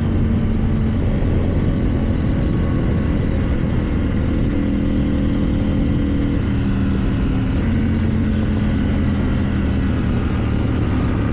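KTM 790 Duke parallel-twin engine with an Akrapovič exhaust, running under way at cruising speed. Its pitch steps up and down a few times as the throttle and speed change, over steady wind and road noise.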